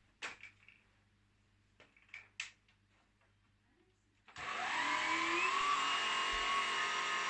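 A few light plastic clicks and knocks, then about four seconds in the Black + Decker Powerseries Pro 2-in-1 cordless stick vacuum is switched on and runs with a steady motor whine, one tone rising in pitch as it spins up.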